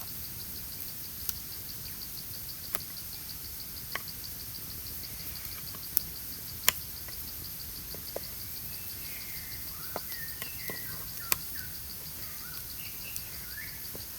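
Forest ambience: a steady, evenly pulsing insect trill, with a bird chirping and calling through the second half. Scattered sharp clicks or snaps break in now and then, the loudest about two-thirds of the way through.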